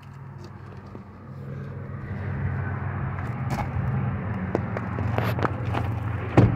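A motor vehicle's engine running steadily, getting louder over the first two seconds and then holding, with a few sharp clicks and knocks, the loudest near the end.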